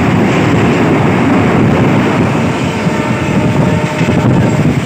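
Passenger train running at speed across a long bridge, heard from on board: a loud, steady rumble of wheels on track, with wind on the microphone.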